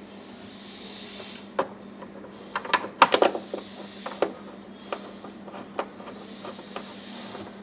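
Parts and tools being handled in a car interior: irregular light clicks and knocks, with a quick cluster about three seconds in, over a steady low hum, with two brief spells of soft hiss.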